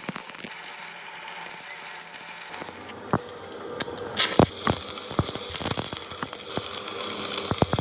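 Metalworking workshop noise: scattered sharp clicks and knocks over a steady hiss, with scraping, and the background changing abruptly about three and four seconds in.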